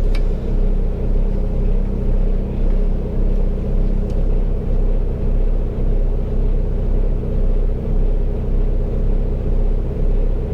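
Kenworth T680 semi-truck's diesel engine running steadily under way, a low rumble heard from inside the cab.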